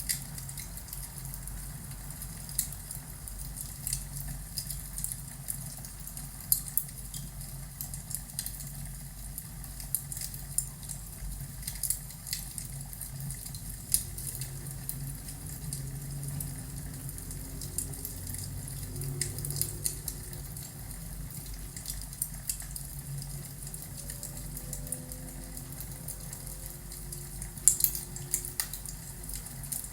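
Crackling fireplace: irregular pops and snaps of burning wood over a low, steady rumble, with a cluster of louder pops near the end.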